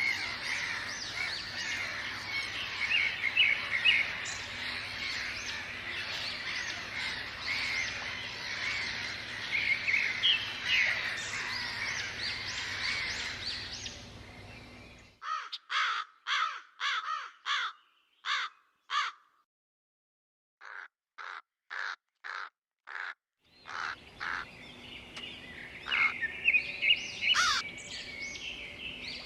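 A dense chorus of many birds chirping. About halfway through it breaks off to a silent background and two runs of loud, evenly spaced caw-like calls, about two a second, before the chorus comes back near the end.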